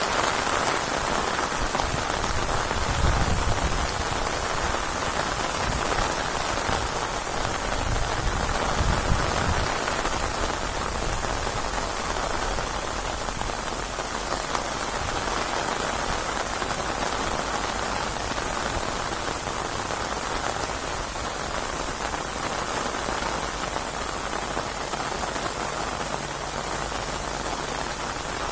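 Steady heavy rain falling on surfaces, an even constant hiss, with low rumbles about three and nine seconds in.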